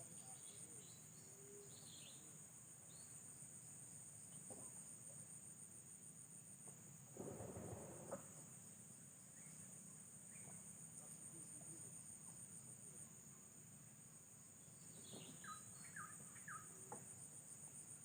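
Faint outdoor ambience of insects trilling steadily in a high, finely pulsed band, with scattered short bird chirps, a cluster of them near the end. About seven seconds in, a short burst of noise stands out.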